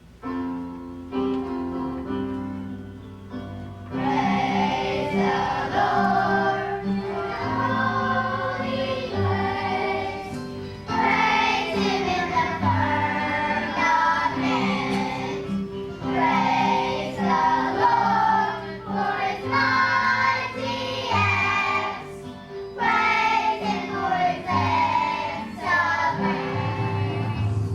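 Children's choir singing a song over instrumental accompaniment. The accompaniment plays alone for about the first four seconds before the voices come in.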